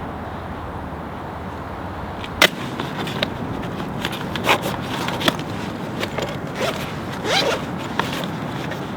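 A steady rushing background noise, then from about two and a half seconds a run of sharp clicks, knocks and short scraping sounds, a few with brief rising squeaks, as objects are handled.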